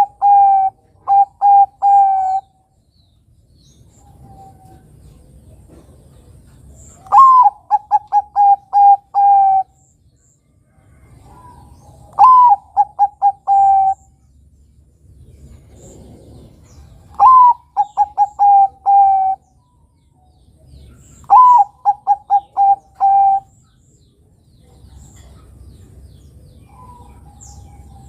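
Bangkok-type zebra dove (perkutut) singing its cooing song, one phrase about every five seconds. Each phrase opens with a rising note, then a quick run of five or six short, even coos. A faint low rumble sits between phrases.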